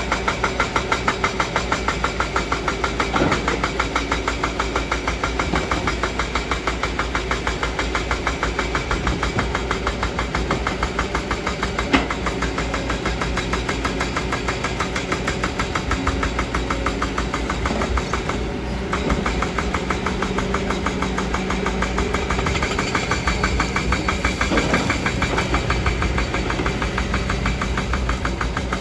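Kobelco excavator's diesel engine running steadily, with a rapid, even pulsing beat. A single sharp knock stands out about twelve seconds in.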